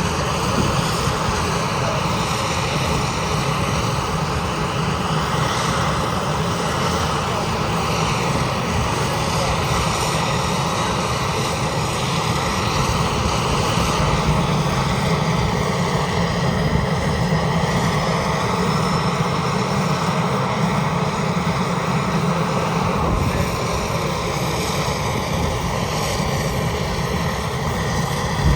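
AgustaWestland EH-101 Merlin helicopter running, its three turboshaft engines and rotors making a loud, steady whine and rush of noise.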